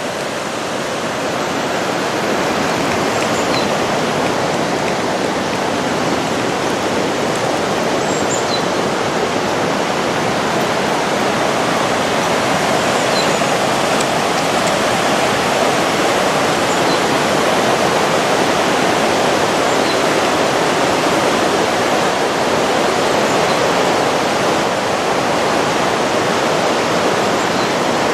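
Steady rush of flowing water, getting slightly louder over the first couple of seconds, with a few faint high chirps here and there.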